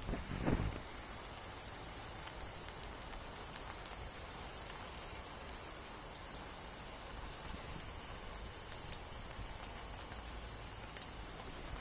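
Beef sizzling on a thick steel griddle plate over a charcoal fire: a steady fat-frying hiss with scattered crackling pops, and a short knock just after the start.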